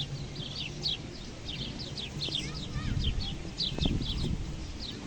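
Small birds chirping continuously: a fast run of short, high, downward-sweeping chirps, several a second, over a low steady rumble of outdoor noise.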